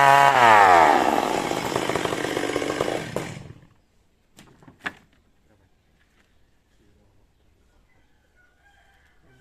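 Chainsaw engine running, its revs dropping about half a second in, then winding down and stopping a few seconds in. A couple of sharp knocks follow about a second later.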